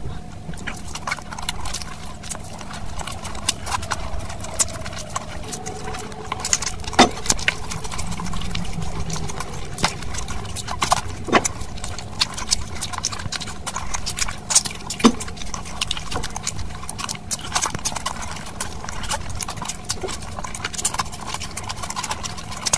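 Close-miked eating sounds: wet chewing, lip smacks and mouth clicks in a quick, irregular run, as handfuls of mutton curry and rice are eaten with the fingers.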